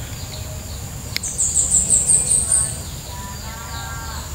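Birds chirping over a steady high insect whine. About a second in, a sharp tick is followed by a loud, rapid run of high chirps, rising slightly and lasting about a second and a half; softer calls follow near the end.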